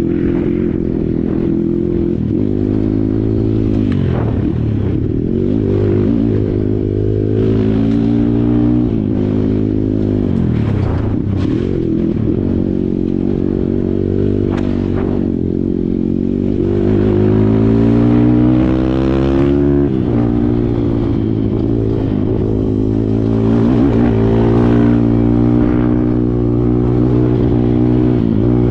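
Kawasaki KLX140 dirt bike's single-cylinder four-stroke engine running under load, its revs dropping and climbing again several times as it is ridden through gear changes and throttle changes, with a few short knocks and rattles.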